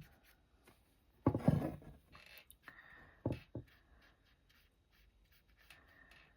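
Handling of watercolour painting materials on a table: a short scraping rustle about a second in, then two light taps, over faint room tone.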